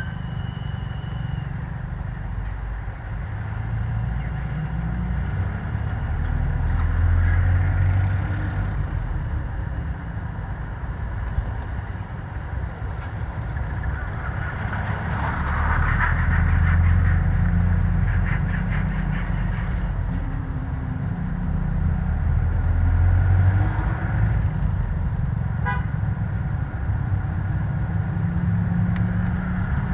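Motor vehicle traffic: engines running with a low rumble that swells and fades in waves as vehicles pass, with horns tooting.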